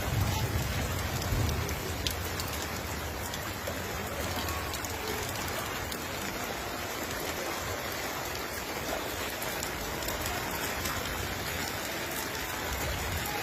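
Heavy rain falling steadily: a dense, even hiss with scattered drop ticks, and a low rumble that fades over the first couple of seconds.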